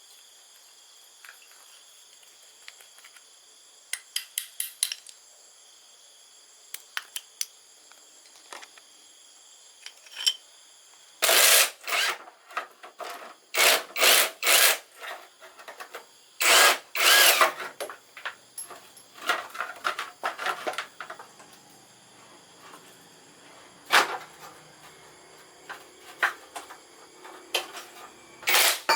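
Workshop noises of motorcycle parts being worked on: light clicks and taps, then from about eleven seconds in a run of loud, noisy strokes, each lasting under a second.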